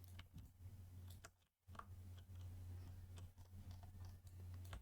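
Near silence: a low steady hum with a scatter of faint clicks and taps, cutting out completely for a moment about one and a half seconds in.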